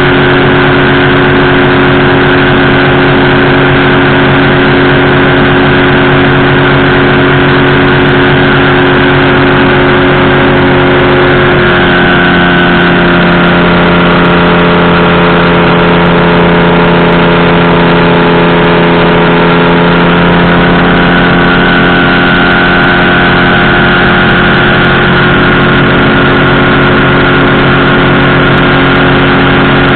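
Powered parachute's engine and propeller running steadily, very loud and close to the microphone with a rushing hiss over it; the engine note shifts pitch about twelve seconds in and eases back again later.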